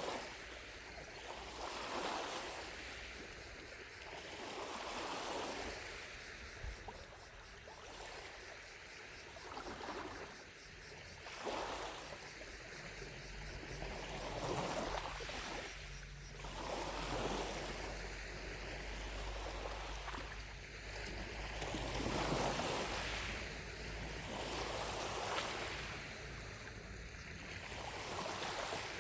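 Gentle lake waves lapping on the shore, swelling and falling every two or three seconds, with cicadas droning faintly in the distance.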